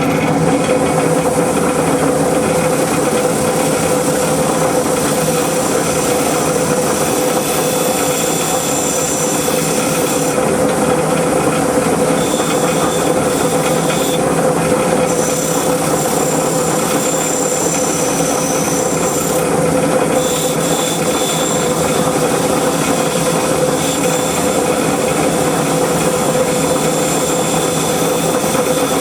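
Power tool working metal, running steadily without a break, with a shrill edge that comes and goes.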